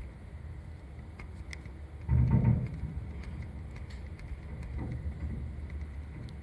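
Fireworks at a distance: one loud boom about two seconds in that dies away within half a second, a weaker one later, and faint scattered crackles over a steady low rumble.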